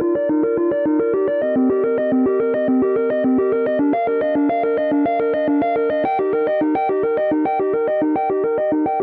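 An iPhone ringtone playing: a synthesized keyboard melody of quick, evenly repeating notes in a looping arpeggio, moving to new notes every couple of seconds.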